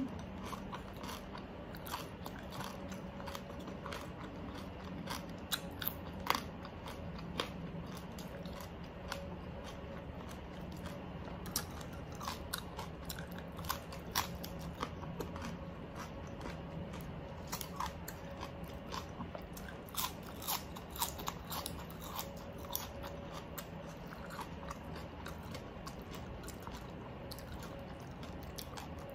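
A person eating oven-baked pork close to the microphone: chewing with irregular crunchy bites and wet mouth sounds. A faint steady hum underneath.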